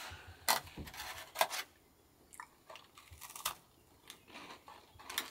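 Crunchy cookies being bitten into and chewed close to the microphone: a few sharp crunches in the first second and a half, then softer chewing.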